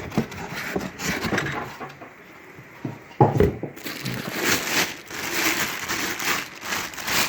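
A pocket knife cutting open a cardboard box, followed by the flaps and cardboard being handled: irregular scraping, tearing and rustling, with a sharp knock about three seconds in.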